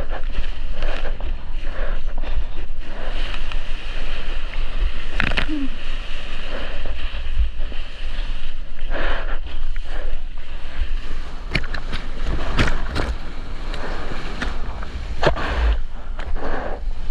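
Ocean water sloshing and splashing right against a surfer's action camera, with wind buffeting the microphone as a steady low rumble. Sharp splashes break through every second or two.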